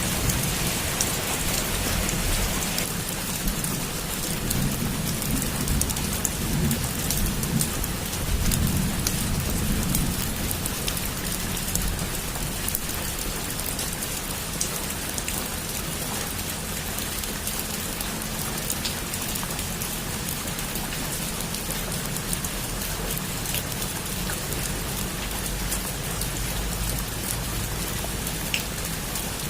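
Heavy rain falling steadily in an even hiss with scattered sharp drop ticks, and a low rumble of thunder in roughly the first third.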